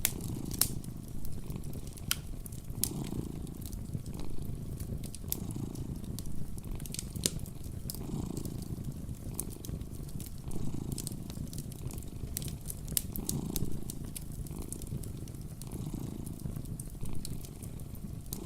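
Domestic cat purring, a low steady rumble that swells and eases roughly every two and a half seconds with its breathing, with a wood fire crackling in sharp scattered pops.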